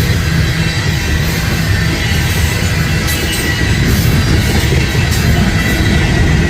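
Loaded coal train's cars rolling past on the rails: a steady heavy rumble of wheels on track with a thin high wheel squeal and a few clicks about halfway through.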